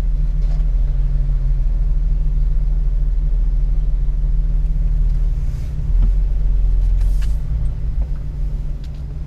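Deep, steady rumble of a 4x4's engine and drivetrain heard from inside the cab while crawling an off-road trail; it eases slightly near the end.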